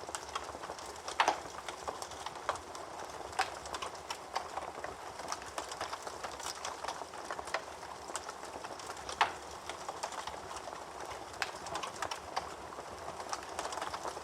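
Wood fire burning in a fireplace, crackling with irregular small snaps over a steady hiss, with louder pops about a second in and again around nine seconds.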